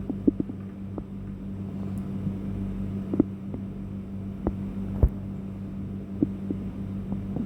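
Steady low hum with a few scattered clicks and light metallic knocks as a seat-belt bracket and its bolt are positioned by hand on the rear seat mounting; the sharpest knock comes about five seconds in.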